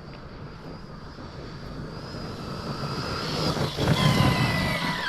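Electric RC monster truck driving, its brushless motor whining over tyre and dirt noise. It grows steadily louder to a peak about four seconds in, then the whine drops in pitch as it eases off.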